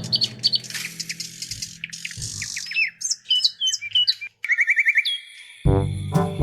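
Birds chirping and tweeting: a run of short chirps sliding up and down in pitch and a quick trill, between stretches of background music that comes back in near the end.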